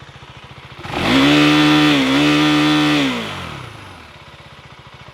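KTM Duke 390's 398cc single-cylinder engine on its stock exhaust, stationary: idling with a steady beat, then revved sharply to about 9000 rpm about a second in, held there for two seconds, and let fall back to idle. The sound is very aggressive at the top of the revs.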